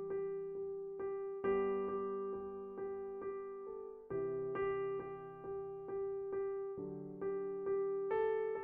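Gentle electric piano music: evenly repeated notes over a low chord that changes every couple of seconds.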